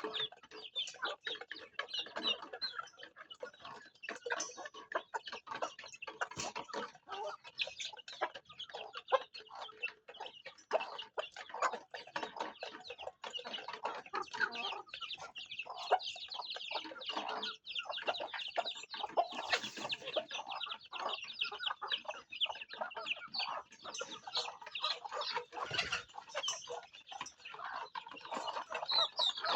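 Farm chickens clucking, with a dense, unbroken stream of short high calls and clicks from the flock.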